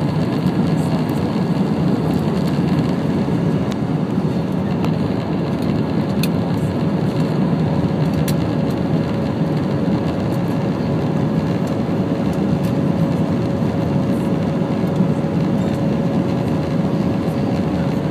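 Steady roar of jet engines and airflow heard inside the cabin of an Airbus A319 airliner in flight, with a thin steady whine above the low rush.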